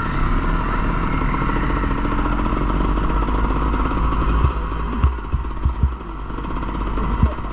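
Motocross bike engines running and revving. A few sharp low thumps come in the second half.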